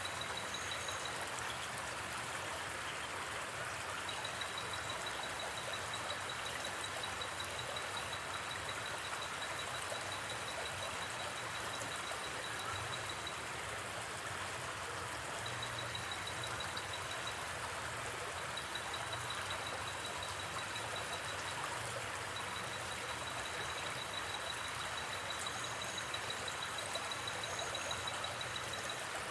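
Steady rushing of a flowing river. Over it, a night insect trills in a high, rapid, even pulse that stops and starts several times, with a few short, higher chirps near the start and the end.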